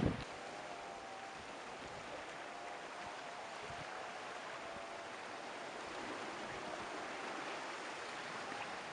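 Steady rush of sea surf washing over rocks along the shore.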